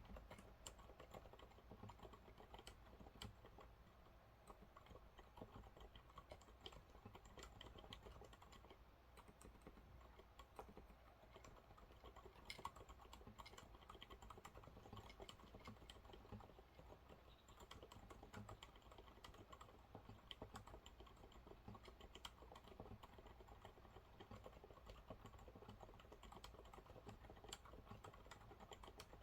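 Faint, continuous typing on a Monsgeek MG108W mechanical keyboard with TTC silent brown switches: a steady, irregular stream of damped keystrokes.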